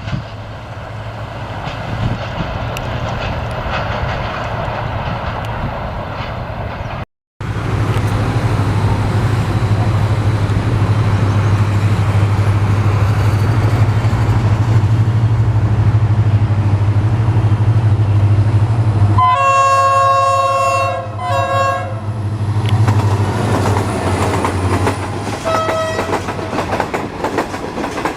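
HGMU-30 diesel-electric locomotive running past with a steady deep engine drone, then sounding its multi-tone air horn in two blasts about two-thirds of the way through, followed by the train's wheels clicking over rail joints.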